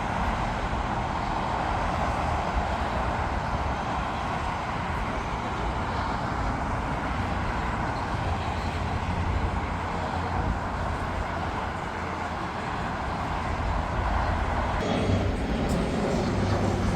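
Jet airliner engine noise: a steady rushing sound. About fifteen seconds in, a lower engine sound with a hum in it comes in and grows louder.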